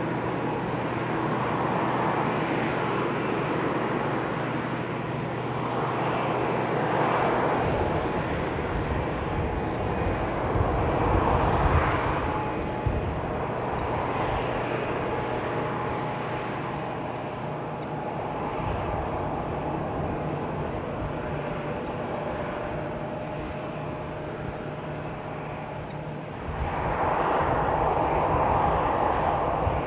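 Jet airliner engines running across an airport apron or runway: a steady, noisy jet rumble that swells and eases, growing louder near the end.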